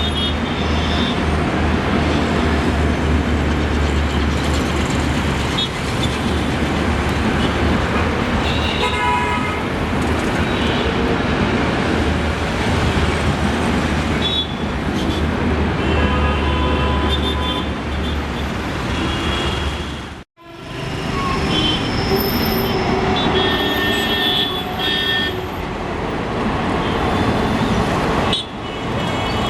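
WAP-7 electric locomotive and its passenger train running by with a steady rumble and low hum, and short horn toots now and then. The sound cuts off abruptly about two-thirds of the way through and picks up again with the same kind of train noise and toots.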